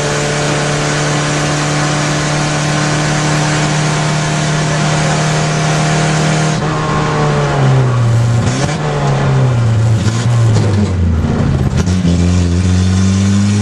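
Rally car engine heard from inside the cabin, held at high, steady revs under full throttle. About halfway through the driver lifts off and the engine note drops in steps through braking and downshifts, with a few sharp knocks. Near the end the revs climb again as the car accelerates away.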